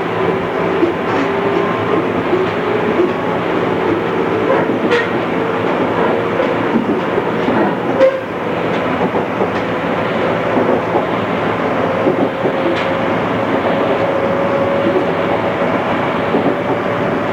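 JR East 211 series electric train running, heard from inside the carriage: steady wheel and motor noise with a faint motor tone that slowly rises in pitch in the latter part, and scattered clicks over the rail joints.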